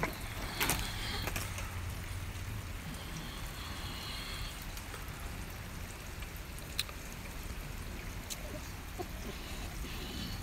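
Freezing rain falling and dripping in an ice storm: a steady patter with a low rumble and scattered sharp ticks.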